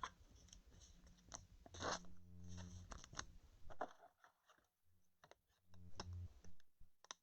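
Faint scattered clicks and rustles of trading cards and their packaging being handled, close to near silence.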